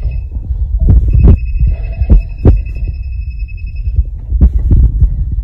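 Heavy low rumble with frequent short knocks, like handling noise, with a steady high-pitched electronic tone sounding from about one second in to about four seconds in.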